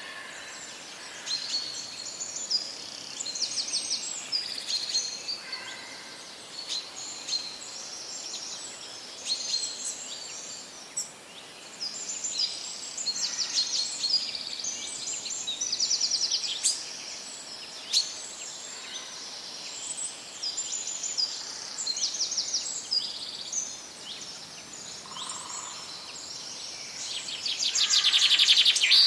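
Several birds singing and calling in a forest: many short high chirps and rapid trills overlapping, with a louder buzzing trill near the end, over a faint steady background hiss.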